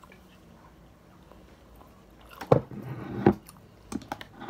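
Close-miked chewing of fried chicken. About two and a half seconds in comes a short louder stretch of mouth noises with two sharp peaks, and a few sharp clicks follow near the end.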